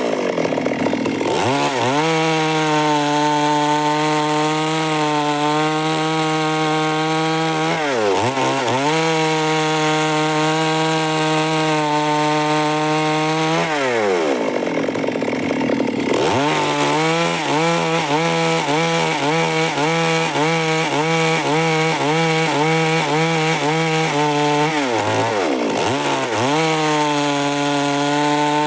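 Stihl MS 382 two-stroke chainsaw running at high revs through wood. Its pitch drops sharply and climbs back several times as the throttle is eased off and opened again, and wavers with the load in between.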